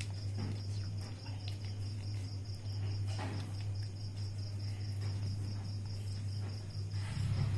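A cricket chirping in a fast, even pulse of one high note, over a steady low hum. A faint rustle about three seconds in.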